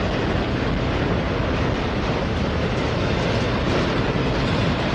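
Freight train of autorack cars rolling past: a steady noise of steel wheels running on the rails.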